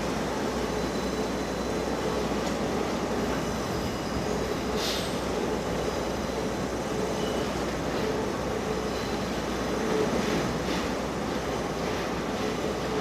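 Limestone freight train moving through the station yard: a steady rail rumble, with a few short high hisses, one about five seconds in and others near the end.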